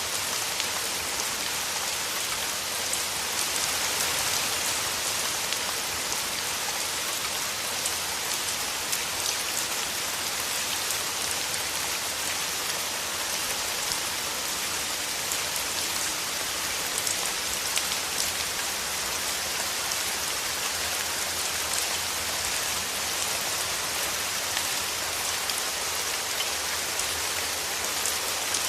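Steady rain falling through forest trees, a continuous even hiss dotted with the ticks of many separate drops.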